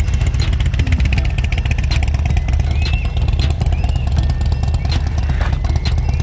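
Harley-Davidson V-twin motorcycle engine running steadily at low revs, a deep even rumble with no revving.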